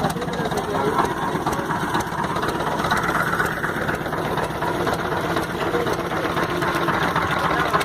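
A small fishing boat's engine running steadily at low revs.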